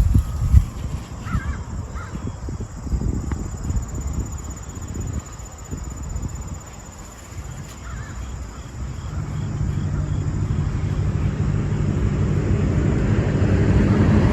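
A few short bird calls, caw-like, over rough wind rumble on the microphone. About two-thirds of the way in, a low steady hum sets in and grows louder.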